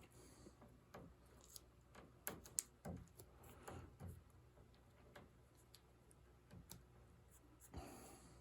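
Faint, scattered clicks and taps of hands handling a thin veneer patch and tape on a wooden piano case, with a few sharper taps about two to three seconds in.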